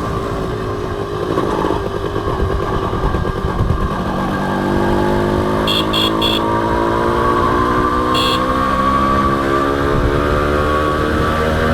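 Honda CDI H100S motorcycle engine running on the road, its pitch climbing steadily from about halfway through as the bike accelerates, with a low rumble of wind and road noise underneath. A few short, high beeps come in around the middle.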